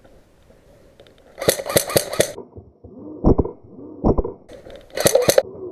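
Airsoft gun firing two short rapid bursts of shots, about a second and a half in and again near the end, with two heavier thumps between them.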